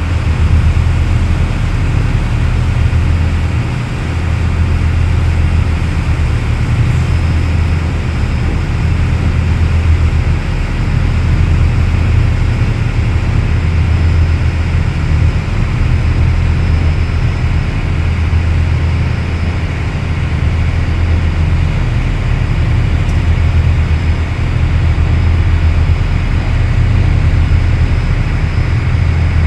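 Workboat's diesel engines droning steadily underway, a deep low hum under an even rushing noise.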